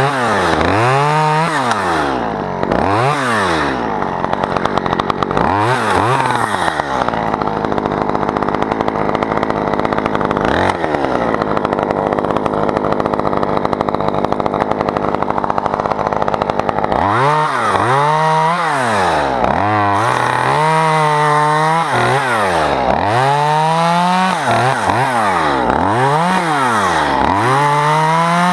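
Two-stroke chainsaw revved up and down in quick repeated blips, then held at a steady high speed for about ten seconds in the middle, then blipped repeatedly again.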